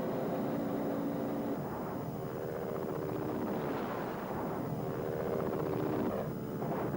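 Helicopter running: steady rotor and turbine noise with engine tones that shift in pitch a couple of times.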